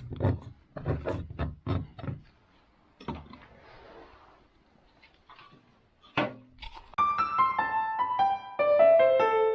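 A file rasping across a saw in quick strokes, about three a second, stopping after about two seconds; a single knock follows later. Piano music starts about seven seconds in.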